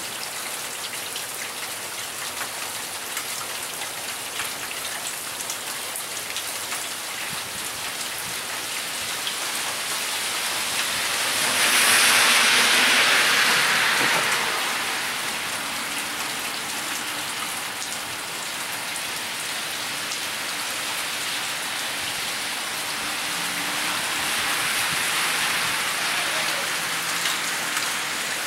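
Heavy rain falling steadily on pavement, swelling louder for a few seconds around the middle and again, more gently, near the end.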